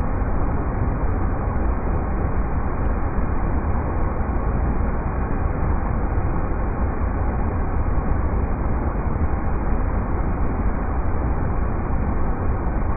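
River rapids rushing in a steady, unbroken wash of water noise, heaviest in the low rumble.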